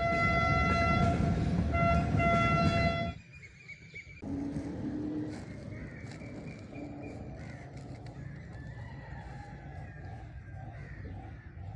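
A loud, steady horn blast lasting about three seconds, with a brief break near two seconds, that cuts off suddenly. After a short pause a quieter, steady low engine rumble carries on.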